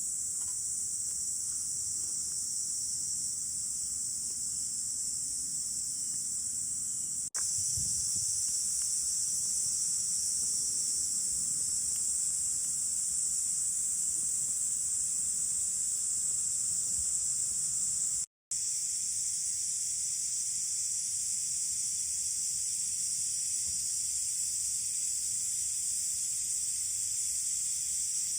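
Steady, high-pitched chorus of insects shrilling, unbroken except for two brief dropouts, about seven and eighteen seconds in.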